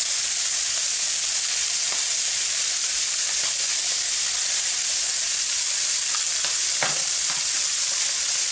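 Raw prawns frying in hot olive oil, a steady high sizzle, with a few light clicks about seven seconds in.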